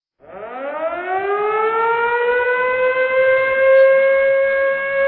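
A siren winding up: one wailing tone rises in pitch over about two seconds, then holds a steady, loud wail.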